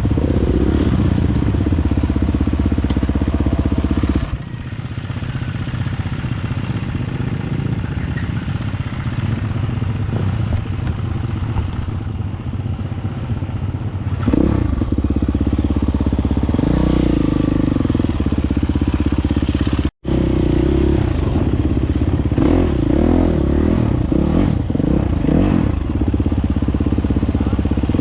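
Dirt bike engine running under throttle. It eases off a few seconds in, then picks up again about halfway through with repeated rises and falls in revs. The sound cuts out for an instant about 20 seconds in.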